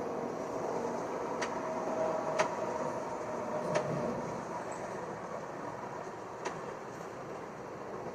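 Gillig hybrid transit bus running, a steady drone of drivetrain and road noise with faint steady tones, easing off slightly, and four sharp clicks or rattles spread through it.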